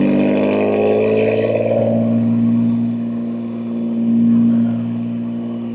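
Exhaust of a BMW M2 G87's S58 twin-turbo inline-six, fitted with catless downpipes and an equal-length mid pipe, pulling up through the revs for about two seconds and then holding a steady cruise.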